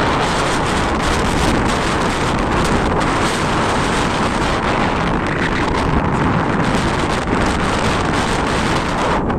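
Loud wind buffeting the microphone, a steady rushing roar with constant small flutters.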